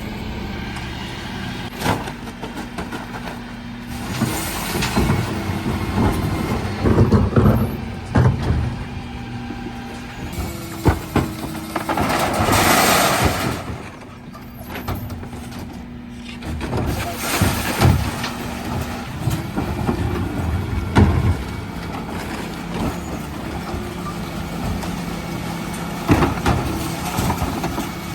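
Dennis Elite 6 refuse truck running steadily under repeated knocks and clatter, with a loud hiss of air lasting about two seconds around halfway through.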